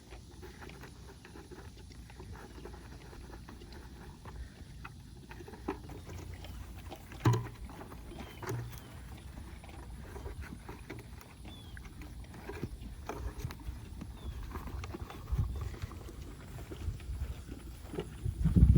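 Horses eating feed from buckets: scattered knocks and thuds over a steady low rumble, the sharpest knock about seven seconds in.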